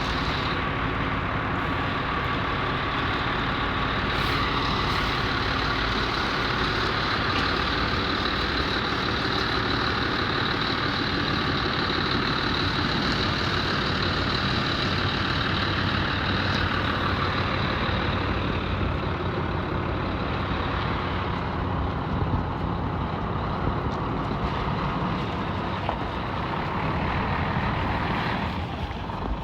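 Scania P124 truck's 12-litre six-cylinder diesel engine running steadily.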